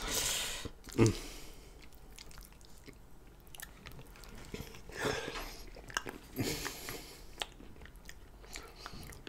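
Close-miked chewing of a mouthful of cheesy lasagna: wet mouth and biting sounds, with a few louder bursts right at the start and again about five and seven seconds in.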